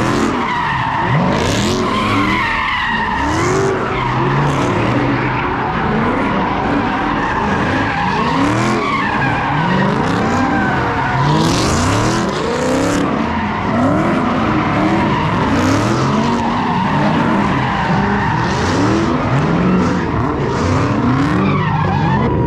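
Several car engines revving up and down under continuous tire squeal: cars doing donuts and burnouts.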